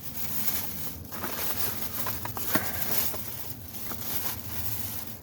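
Hands rummaging through a bag: rustling, with a few small clicks and knocks of items being shifted.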